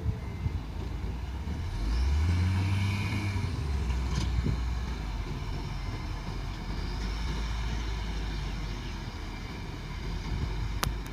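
Diesel dump truck engine running, its revs rising about two seconds in and then holding steady. A single sharp click near the end.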